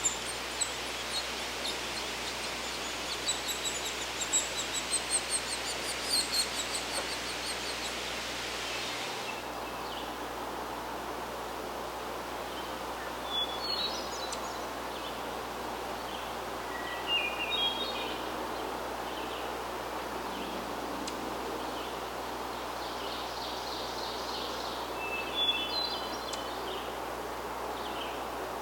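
Songbirds singing over a steady background hiss. For the first nine seconds there is a quick run of rapid, repeated high notes. After that come a few short, separate high phrases, several seconds apart.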